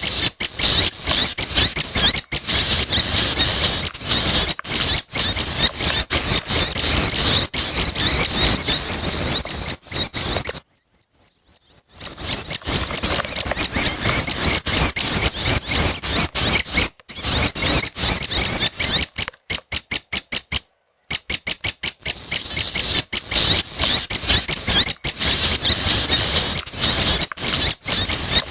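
Prinia chicks (anakan prenjak) calling: a dense, rapid, high-pitched chatter, breaking off for about a second near the middle and again briefly later on.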